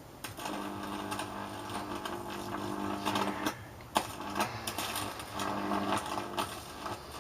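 High-voltage microwave oven transformer rig energised, giving a steady mains buzz with crackling sparks. The buzz cuts out about three and a half seconds in and a single sharp snap follows. It then buzzes and crackles again for about two seconds.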